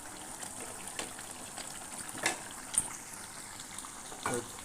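Spiced chicken sizzling as it fries down in a pan, a steady hiss, with a few sharp clicks of a spoon against the pan, the loudest two in the middle.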